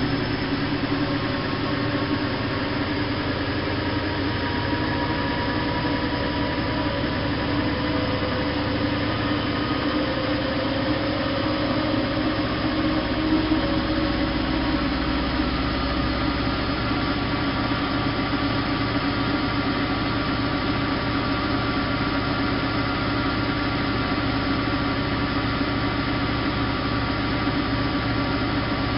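Bosch WFK 2431 washing machine running steadily, its motor whine and drum hum continuous, with some of the whine drifting slightly up in pitch about ten seconds in.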